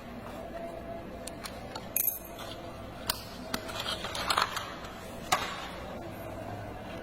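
Hard plastic toy parts clicking and clattering as they are handled, with a few sharp clicks and a short busier rattle partway through, over a steady low hum.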